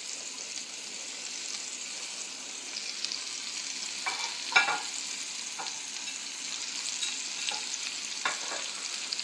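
Chopped bell pepper, onion and garlic sizzling steadily in butter in a cast-iron skillet, with a few short scrapes and clinks against the pan, the loudest about four and a half seconds in.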